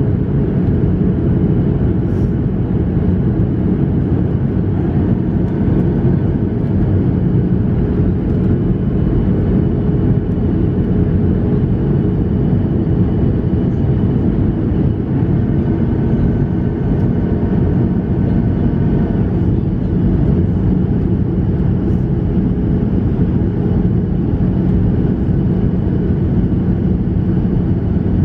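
Steady cabin noise inside a Boeing 737-700 in flight: a low, even rumble of its CFM56-7B engines and airflow, with a steady hum underneath.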